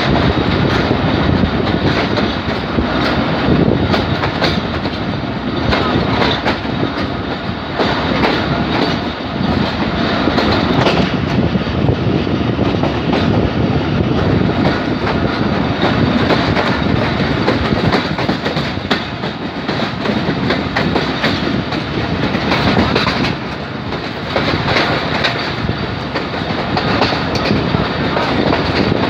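Moving passenger train heard from an open window of its coach: a steady rumble, with the wheels' clickety-clack over rail joints.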